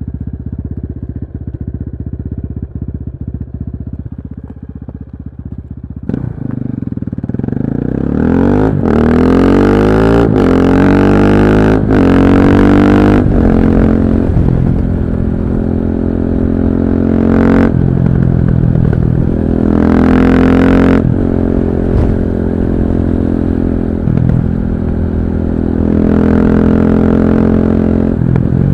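KTM 640 LC4 single-cylinder four-stroke engine idling, then pulling away and accelerating hard through the gears, the pitch rising with each gear and dropping at each shift. It sounds a little dull and muffled, with no wind noise.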